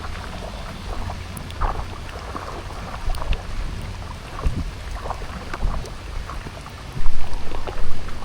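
Rain falling, with scattered close drops tapping and wind rumbling on the microphone; the rumble gets louder about seven seconds in.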